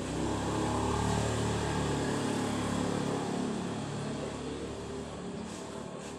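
A motor vehicle's engine running close by, loudest about a second in and then slowly fading away.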